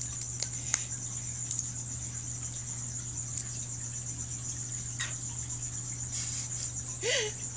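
Steady high-pitched trill of crickets, with a low steady hum and a few light clicks. Near the end, a cockatiel gives a short squawk that falls in pitch.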